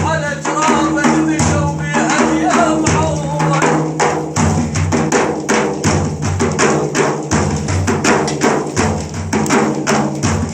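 Arabic religious praise song (madih) sung by a male singer over frame drums and a steady low bass drone. The voice drops out about three seconds in, leaving a quick, driving frame-drum rhythm.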